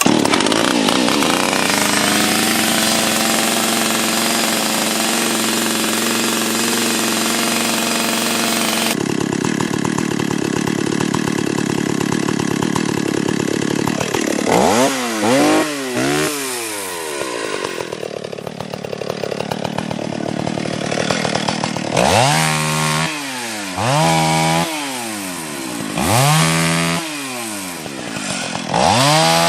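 Two-stroke chainsaw running at high speed for about nine seconds, then dropping back and being revved in short bursts: three quick ones midway and four more, about two seconds apart, near the end.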